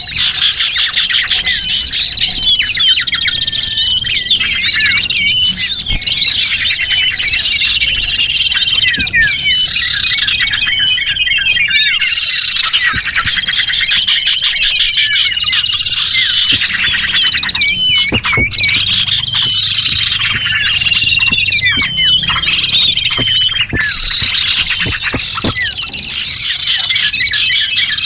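Dense chorus of small songbirds chirping, twittering and trilling over one another, a bird-lure (pikat) recording made to draw small birds in. Short held high whistle notes recur again and again through the busy chatter.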